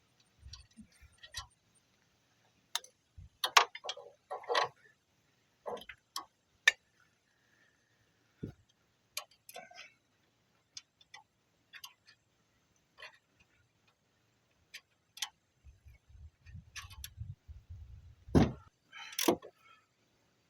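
Irregular metallic clicks and clanks of hand tools being worked, with a few sharper knocks, the loudest near the end.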